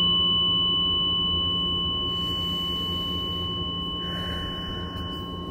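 Struck tuning fork ringing with a steady pure tone and a high overtone, slowly fading, then cut off abruptly at the end.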